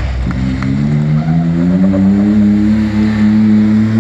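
A rally vehicle's engine accelerating hard, its pitch climbing steadily from about a third of a second in.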